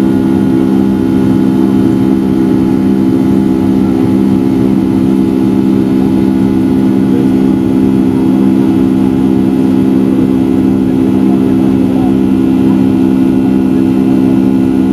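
Boeing 757-200's Rolls-Royce RB211 turbofan engines heard from inside the cabin while climbing after takeoff: a loud, unbroken drone with several steady low tones over a constant rushing noise.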